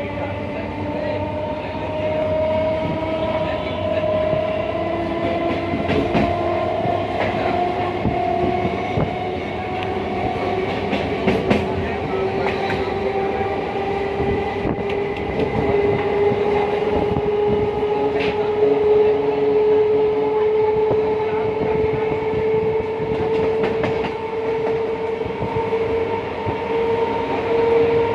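Passenger train running on the line, heard from on board: a steady rumble with a whine that slowly rises in pitch as the train gathers speed, and scattered clicks of the wheels over the rail joints.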